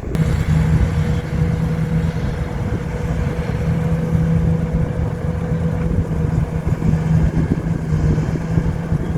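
Diesel engine of heavy earth-moving equipment running steadily at an even speed, with a constant low hum. It begins abruptly.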